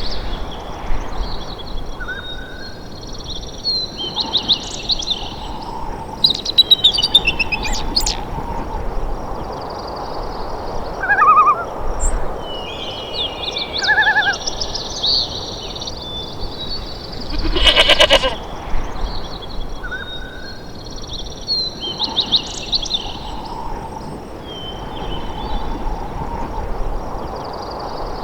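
Wild songbirds singing in short repeated phrases over a steady outdoor background hiss, with one short harsh animal call rich in overtones about two-thirds of the way through.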